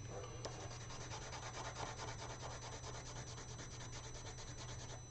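Coloured pencil shading on paper in rapid back-and-forth strokes, a steady dry scratching that starts about half a second in.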